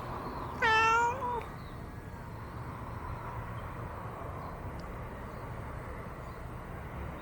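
A cat gives one short meow, under a second long, slightly rising at its end, over a steady low background rumble.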